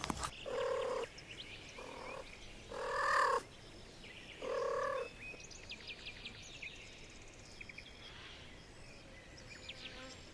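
An animal calling four times in short, even-pitched calls about half a second long, followed by faint scattered clicks and chirps.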